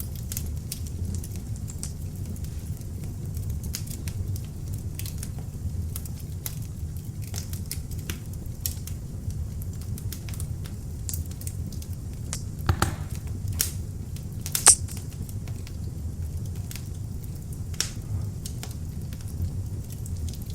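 Beech-wood log fire burning in an open fireplace: a steady low rumble of flames with frequent sharp crackles and pops, a cluster of louder cracks about two-thirds of the way through and one loud pop soon after.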